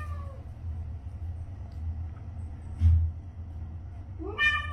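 A low steady rumble with a single dull thump about three seconds in. A domestic cat's meow tails off at the very start, and another long, wavering meow begins near the end.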